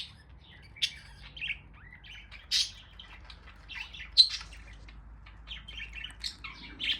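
A flock of budgerigars chattering, with many short chirps and squawks overlapping at irregular intervals and a sharper call about four seconds in.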